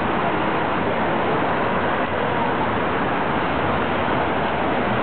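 Steady city street noise, mostly road traffic.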